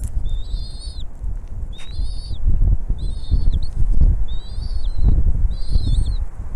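Bald eagle calling: a series of short, high, squeaky chirping calls, about one a second, over a steady low rumble.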